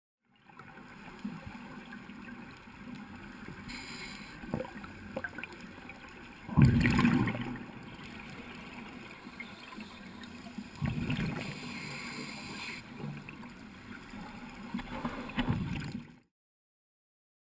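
Underwater gurgling of scuba exhaust bubbles, three loud surges about four seconds apart over a steady low water hiss.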